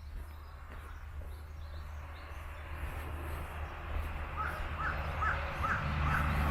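Birds calling outdoors: a faint high chirp repeats early on, and about four and a half seconds in a bird gives a run of short calls at roughly two a second. Under them a steady low rumble and a background hiss grow louder.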